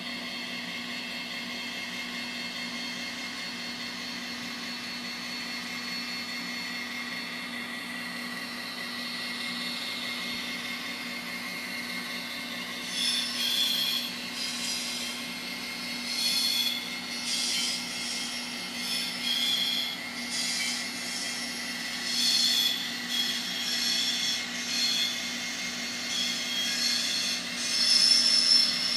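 An N scale model locomotive's DCC sound decoder is playing GP60 diesel engine sound, a steady hum from the model's tiny speaker. From about halfway, repeated high-pitched squeals come and go over it.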